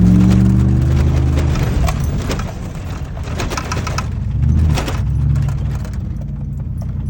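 Ram pickup truck's engine working hard under load on a hill climb, loudest in the first second and a half and then easing off. Scattered knocks and clatter follow in the middle of the stretch.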